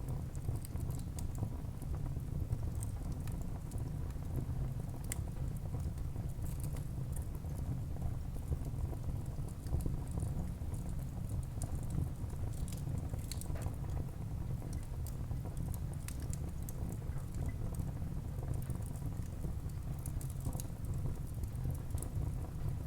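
Wood fire burning in a fireplace: a steady low rumble of the flames with frequent small crackles and pops from the burning logs.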